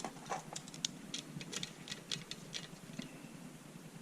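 Light, irregular clicks and ticks of small parts being handled: electrical wires and their connectors being fitted to the pump's switch terminals.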